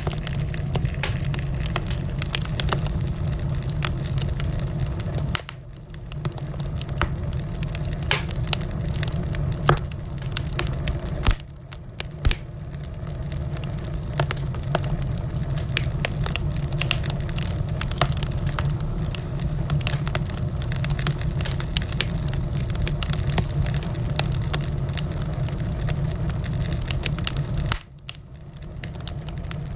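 Wood fire crackling in a fireplace: many sharp pops and snaps over a steady low rumble. There are brief quieter dips about five seconds in, around twelve seconds and near the end.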